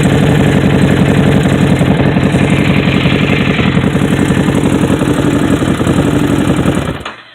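A 2017 Harley-Davidson Street Rod 750's V-twin runs loud and steady at idle through a TAB Performance slip-on muffler, then stops abruptly near the end.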